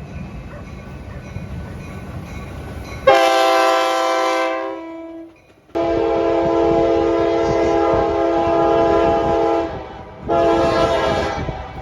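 Locomotive multi-chime air horn blowing long, long, short, the grade-crossing pattern, after a few seconds of low train rumble. The first blast starts about three seconds in, and the second, the longest, lasts about four seconds.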